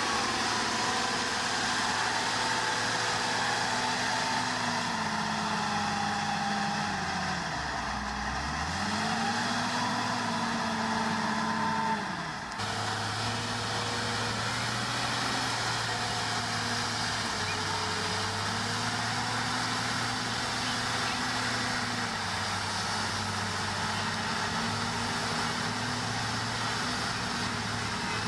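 Diesel engine of heavy earthmoving equipment running. About eight seconds in its pitch sags deeply and climbs back, and the sound changes abruptly a few seconds later before running steadily again.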